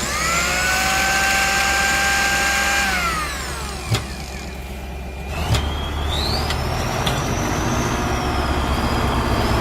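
Cartoon sound effects: a machine-like whine that rises at the start, holds and slides down about three seconds in, two sharp knocks, then a high whistling tone that rises and wavers.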